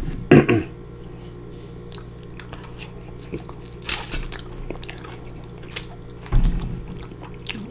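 Close-miked chewing of soft, sauce-covered fries, with wet mouth sounds. A metal fork scrapes and clicks against the foil tray about four seconds in.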